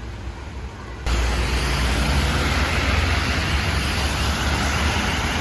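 Heavy downpour: dense rain pouring with a steady hiss and a deep low rumble. It comes in suddenly and much louder about a second in.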